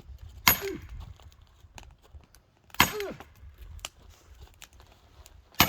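Three heavy blows on firewood, about two and a half seconds apart, each a sharp crack followed by a short falling ring.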